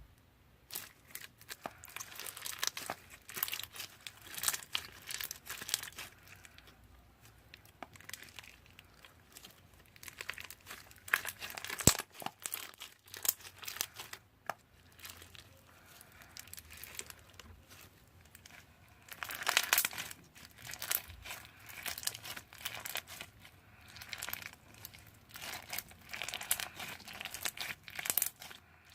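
Slime being squeezed and kneaded by hand, making fast wet crackles and small pops in bursts, with short quieter pauses between them.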